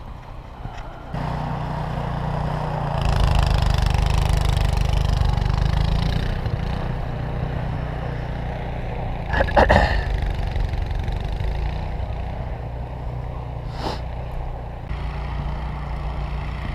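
An engine running steadily. It comes in about a second in and is louder for a few seconds after that. There is a sharp knock near the middle.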